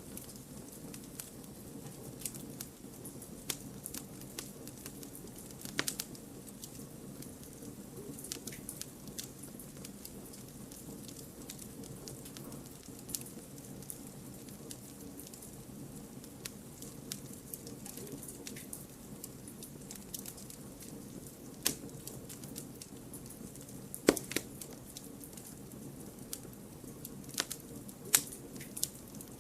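Wood campfire burning: a steady low rush of flame under irregular crackles and pops from the burning logs, with a few sharper pops in the last third.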